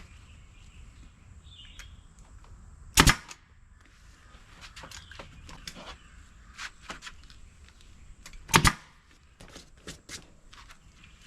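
Staple gun firing twice into the seat base as the vinyl upholstery is stretched and stapled down, each shot a sharp crack, about three seconds in and again near nine seconds. Between the shots there are small clicks and rustling as the material is handled.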